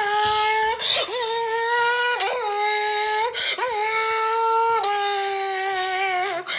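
A person's voice imitating a McLaren P1 supercar engine: a high, held, engine-like note that breaks and jumps back up about every second and a half, like an engine working through its gears.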